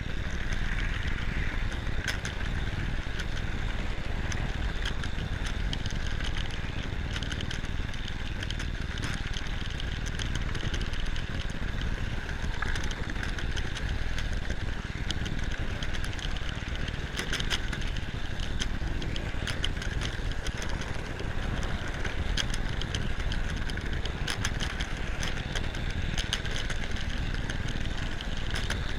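Hornby Dublo 3-rail model locomotive running steadily along its track, heard close up from the moving train: a steady motor whine over a low rumble of wheels on rail, with frequent irregular clicks.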